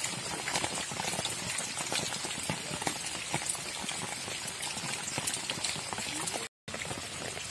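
Heavy rain pattering on a tent, a dense spatter of drops. The sound briefly cuts out once near the end.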